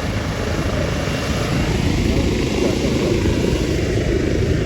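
Medical helicopter's rotor and turbine running, a steady low rumble that grows slightly louder about two seconds in.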